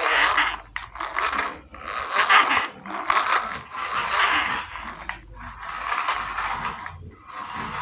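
Toy car wheels scraping and rolling over a hard surface in short repeated pushes, about one a second.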